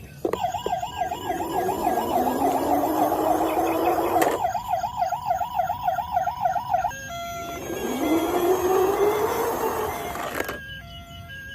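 Electronic toy siren wailing fast, rising and falling about four times a second, over a slowly rising whine. The siren stops about seven seconds in, the rising whine comes again, and near the end a stepped electronic beeping tune plays.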